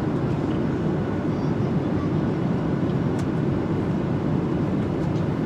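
Airliner cabin noise in flight: the steady low rumble of the jet engines and rushing air, unchanging throughout.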